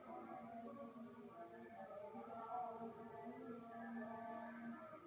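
Night insect chorus: a steady, unbroken high-pitched trill, with many shorter, lower calls overlapping beneath it.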